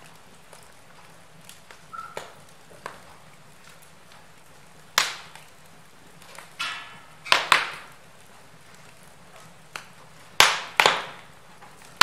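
Wood fire in a fireplace crackling: scattered sharp pops and snaps at irregular intervals, the loudest about five seconds in and a pair near the ten-second mark, over a faint steady background.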